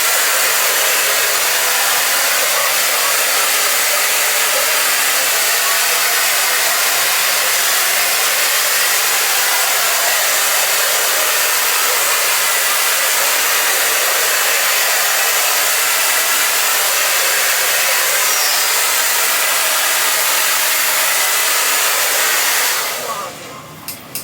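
Hair dryer blowing steadily, then cutting out abruptly near the end when the power trips because too many things are plugged in.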